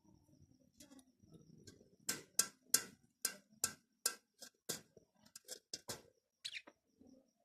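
Java sparrow giving a run of about a dozen sharp clicking notes that come closer together toward the end, followed by a brief higher note.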